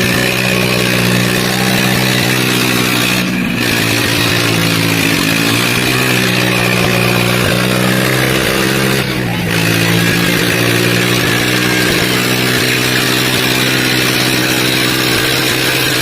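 Diesel tractor engines running hard under load in a tractor tug-of-war, a steady drone whose pitch shifts slightly. The sound briefly drops out about 3.5 and 9 seconds in.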